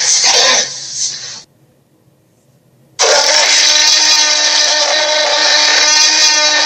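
Dragon roar sound effects: a loud, rough roar that dies away about a second and a half in, a short silence, then a second long roar with a steady pitched tone under the rasp.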